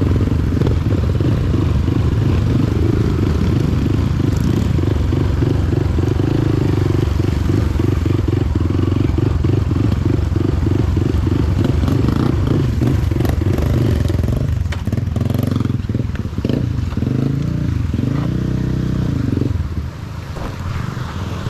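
Motorcycle engine running while being ridden, with a fast steady pulsing; the engine revs up near the end, then the level drops.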